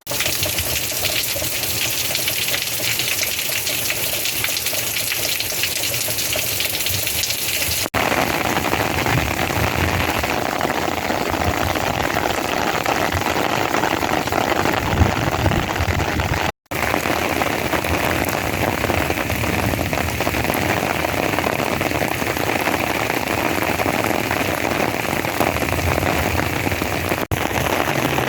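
Rain falling steadily, a dense even hiss of drops on surfaces. The sound changes abruptly three times, about 8, 17 and 27 seconds in, where recordings are joined.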